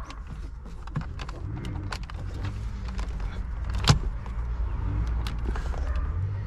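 A car engine idling with a steady low hum, under scattered small clicks and taps and one sharp click about four seconds in.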